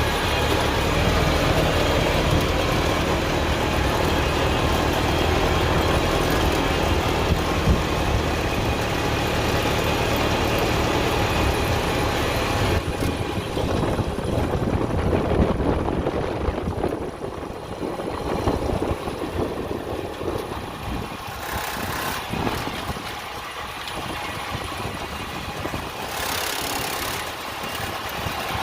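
Tractor engine running steadily. About halfway through the sound changes to a rougher, more pulsing engine note and grows somewhat quieter.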